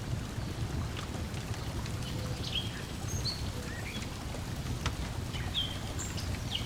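Lakeside ambience: a steady low wash of water lapping at the shore, with sharp pops from a crackling wood fire and short bird chirps scattered over it.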